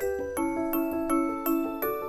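Background music: a light, bell-like tune on mallet percussion such as glockenspiel, with evenly paced struck notes about three a second.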